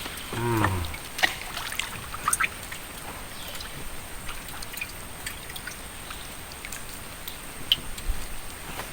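Light trickling and dripping water with scattered small clicks and ticks.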